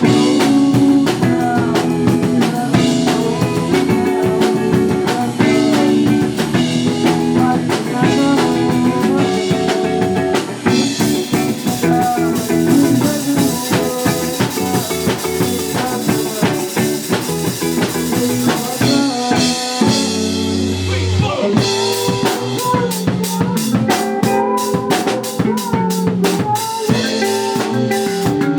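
Live band playing loud with a full drum kit, snare and rimshot hits over guitar and bass, the drums shifting pattern a few times.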